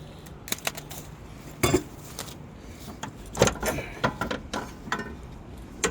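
Irregular metallic clanks, knocks and rattles of a car's old suspension strut being worked loose and lifted out, with about half a dozen sharp knocks, the loudest near the middle.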